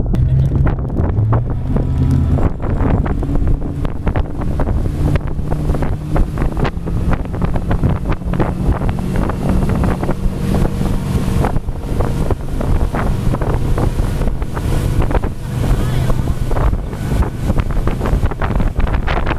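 Motorboat engine running steadily under way, a low hum, with heavy wind buffeting on the microphone.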